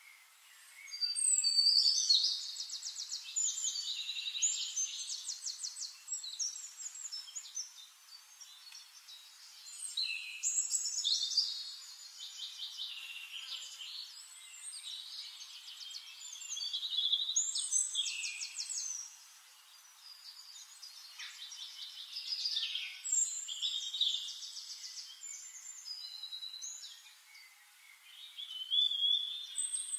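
A songbird singing long phrases of rapid high trills and chirps, a new phrase about every six to eight seconds with quieter twittering between.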